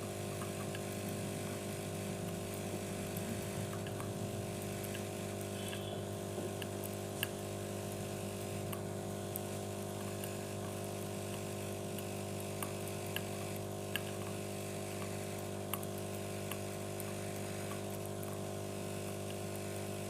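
A steady machine-like hum of several constant tones, with scattered small sharp clicks from budgies pecking and cracking seed.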